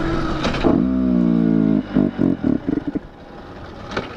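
Two-stroke dirt bike engine running, then stuttering in a handful of uneven bursts about two seconds in and dying. The engine is starved of fuel: the tank has run dry.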